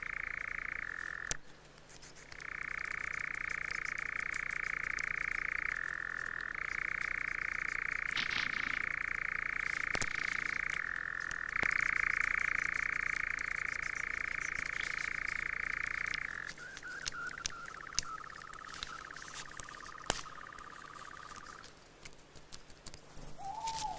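A steady, buzzing churring trill from an animal, held in long unbroken bouts of several seconds with short pauses between them. About two-thirds of the way through, it drops lower in pitch and dies away. Faint rustles and ticks sound in the background.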